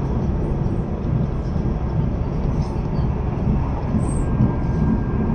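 Steady low rumble of a KTMB ETS electric train running, heard from inside the passenger carriage.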